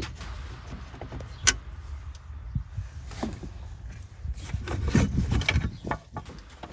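Plastic center dash trim panel being worked loose and handled, giving scattered clicks, rattles and knocks. One sharp click comes about a second and a half in, and a heavier stretch of rubbing and knocking comes around five seconds.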